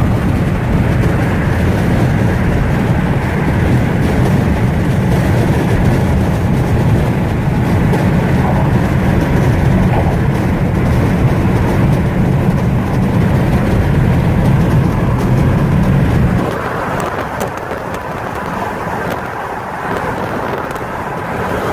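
Strong wind buffeting the phone's microphone, a heavy low rumble that eases abruptly about 16 seconds in.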